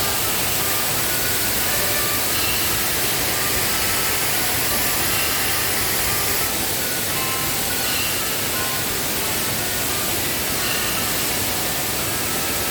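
Waterfall in rainy-season flood, its rushing water making a steady, loud hiss. Faint short high notes recur about every two and a half seconds.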